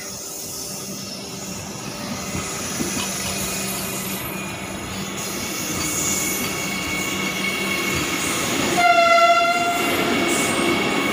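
Vande Bharat Express electric multiple-unit train running slowly in along the platform, with a steady rolling noise and a faint whine that grow a little louder. About nine seconds in, its horn sounds once for about a second.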